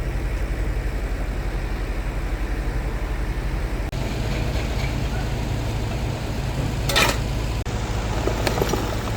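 A steady low mechanical rumble, with a sharp clatter about seven seconds in and a few lighter knocks near the end.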